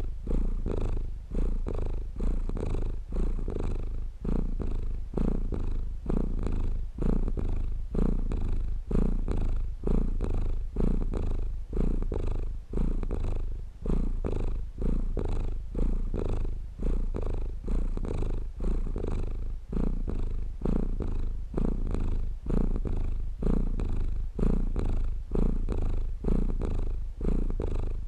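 Domestic cat purring steadily. The low rumble swells and fades in an even rhythm with each breath in and out.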